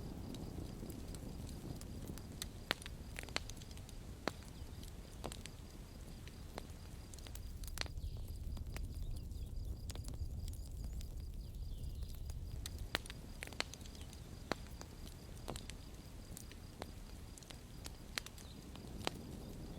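Campfire burning: a steady low rumble of flames with irregular sharp crackles and pops from the burning wood, a few of them louder than the rest.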